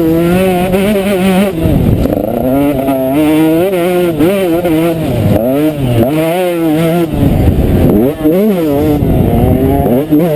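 Motocross bike engine being ridden hard, its pitch climbing and falling again and again as the throttle opens and shuts, with several quick drops in revs.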